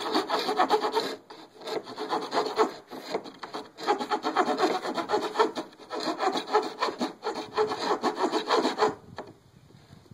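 Hand saw cutting plywood: rapid back-and-forth strokes with two short breaks, stopping about nine seconds in.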